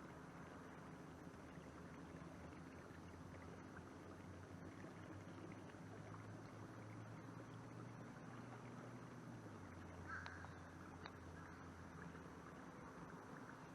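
Near silence while canoeing a canal: faint outdoor ambience with a low steady hum that drops in pitch about two-thirds of the way through, and one short high chirp about ten seconds in.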